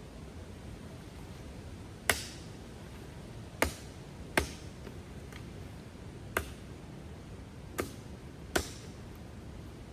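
Axe or hatchet chopping firewood: six sharp strikes at irregular intervals of about one to two seconds, over a steady background hiss.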